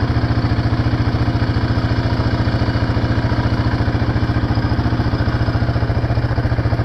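Small off-road vehicle engine idling steadily, with an even, rapid pulse.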